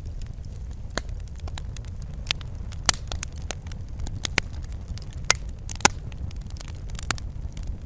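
Wood fire burning in a fireplace: irregular sharp crackles and pops over a steady low rumble of the flames, with a few louder pops about three and six seconds in.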